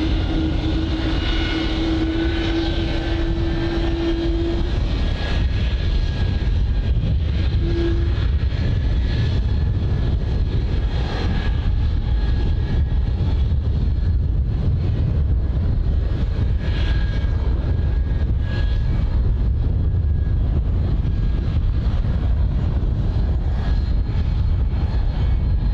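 Jet engines running steadily: a continuous low rumble with a faint high whine.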